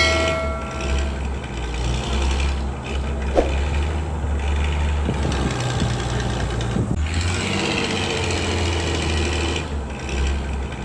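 A toy vehicle running with a steady, engine-like mechanical hum.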